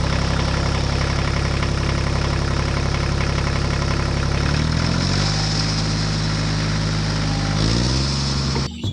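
Tractor engine running steadily. Its pitch rises slightly about halfway through and again near the end, then it cuts off suddenly.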